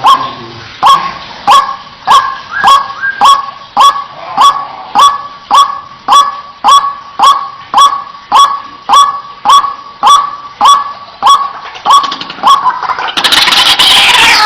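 White-breasted waterhen (ruak-ruak) giving its loud, monotonous 'wak' call over and over, about two calls a second. Near the end the single calls give way to a louder, overlapping chorus of harsh calls.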